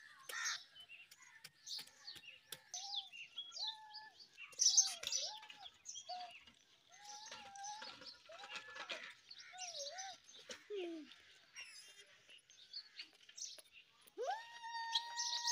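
Small birds chirping busily throughout, many short high chirps, mixed with repeated short mid-pitched calls and a long rising-then-held call near the end.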